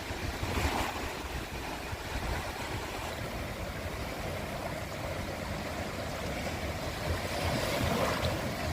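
Small sea waves washing onto a beach, an even rush that swells about a second in and again near the end, with some low wind rumble on the microphone.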